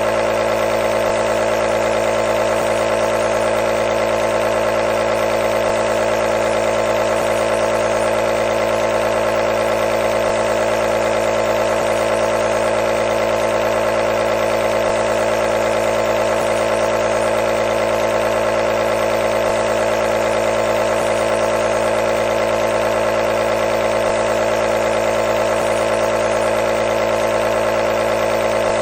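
Compressor nebulizer running steadily: a constant motor hum with a rapid fine buzz and a hiss of air over it.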